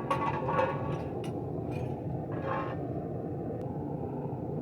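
Metal-melting furnace running with a steady low rumble, as its burner heats a crucible of copper.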